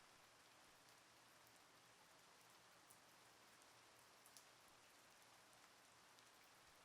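Faint steady rain falling, an even hiss with scattered sharp drops ticking on a surface, the loudest about four seconds in.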